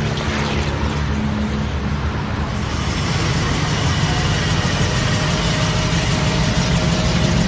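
Classic car engines rumbling low in slow cruise traffic. About two and a half seconds in, a hiss of road and tyre noise rises and stays.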